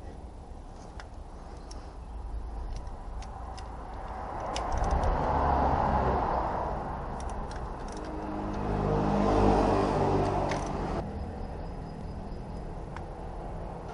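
Motor vehicle noise, a low rumble with hiss that swells and fades twice. The second swell carries an engine hum that cuts off abruptly about eleven seconds in.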